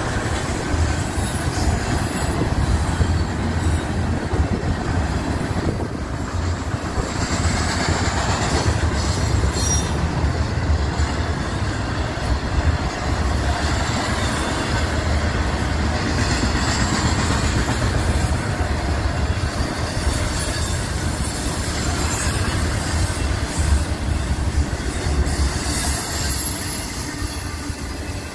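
BNSF intermodal freight train's container and trailer cars rolling past: a steady rumble of wheels on rail with clacking over the joints and a thin high wheel squeal now and then. The sound eases off near the end as the last car goes by.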